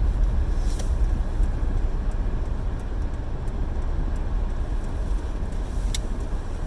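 Car cabin noise while driving: a steady low engine and road rumble, with a faint click about six seconds in.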